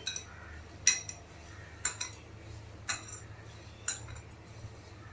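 Light metallic clinks about once a second: a steel utensil tapping against a steel mixing bowl as gram flour is added to the dough.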